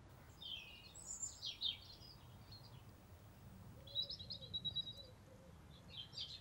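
Wild birds singing outdoors: quick clusters of high chirps about half a second to a second and a half in, a short high trill around four seconds, and more chirps near the end, over a faint low background rumble.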